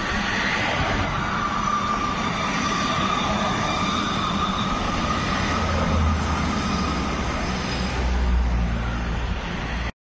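Train passing on the rail lines, with a steady high squeal that sags slightly in pitch for a few seconds under a constant rumble. The sound cuts off suddenly near the end.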